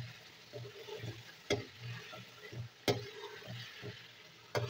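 Mutton koftas sizzling in an oily onion-tomato masala as a metal spatula stirs them in a metal pan, with three sharp clicks of the spatula striking the pan, about a second and a half apart.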